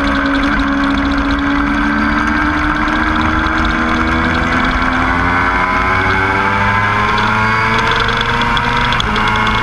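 Motorcycle engine on a race track, its pitch dipping briefly near the start and then climbing steadily as the bike accelerates through the gears' rev range.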